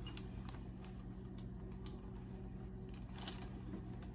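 Low steady hum with a few faint scattered clicks and a short rustle about three seconds in.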